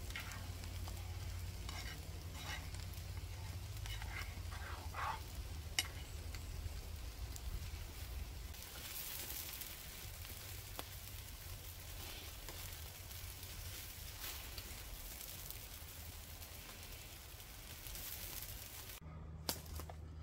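Chicken, sausages and bacon sizzling on a grill rack over a wood campfire. A few sharp clicks and scrapes of metal utensils come in the first several seconds as the food is stirred in a small pan and turned on the grill.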